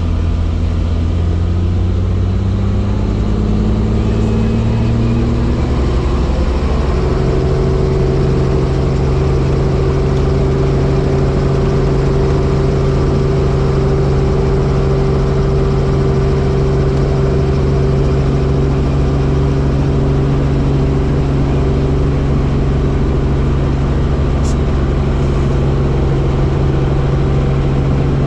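Helicopter engine and rotor winding up: the pitch rises over the first seven seconds or so, then holds steady at full speed.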